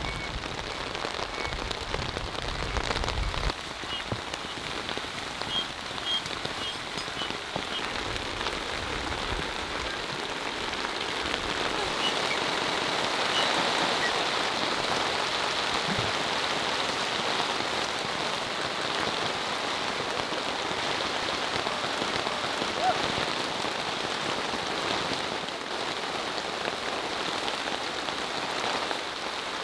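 Heavy rain falling steadily, a dense even hiss of drops. Low rumbles come through in the first few seconds and again around eight seconds in.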